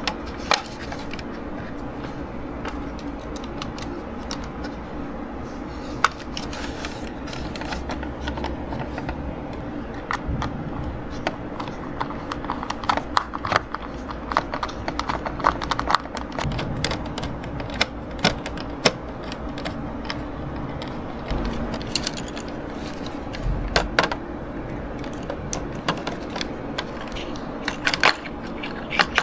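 Irregular light clicks and clinks of small parts of an RC gearbox being handled and fitted, busiest in the middle, over a steady low hum.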